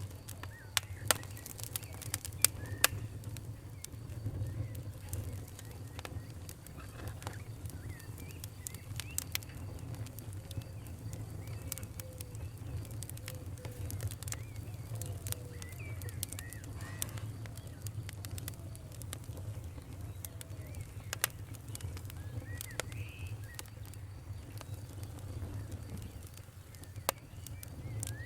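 Campfire crackling, with sharp pops scattered irregularly over a low steady rumble, and faint bird chirps.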